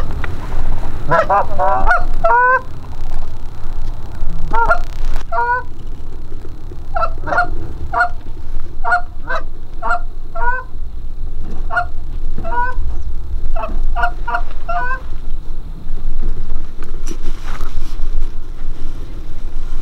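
Geese honking: many short, clipped honks in quick runs and clusters, with brief pauses between them, over a steady low rumble.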